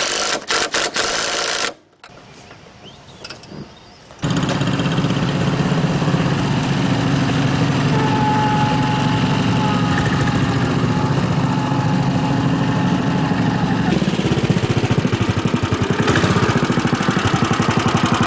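A John Deere AMT 600 Gator utility vehicle's small engine starting about four seconds in and running steadily with an even, fast pulse. Before that there is a short run of loud, rapid, rhythmic knocking, then a quieter gap.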